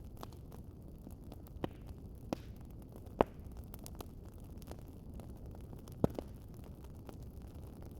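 Wood fire crackling: a steady low rumble of burning with scattered fine ticks and a handful of sharp pops, the loudest a little past three seconds in.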